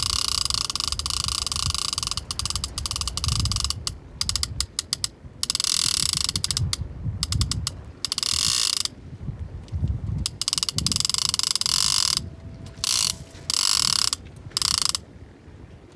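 Large big-game fishing reel buzzing its ratchet as line is pulled off against the drag: a shark is taking line. The buzz runs steadily at first, then stops and starts in runs of one or two seconds.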